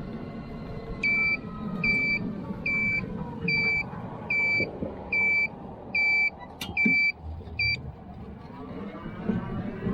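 Electric farm trike's electronic beeper sounding about nine evenly spaced beeps, under the faint whine of its electric motor, which falls in pitch and rises again near the end.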